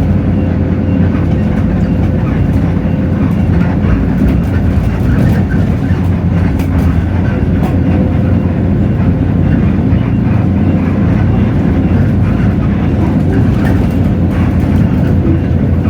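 Hino J08E-VN 7.7-litre diesel engine of a Hino RK8JRVA-KJF city bus running steadily under way, heard from inside the passenger cabin. There is a steady, thin whine and a few light rattles.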